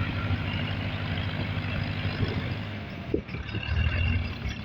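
Ford tractor engine running steadily with a low drone, swelling louder for a moment late on.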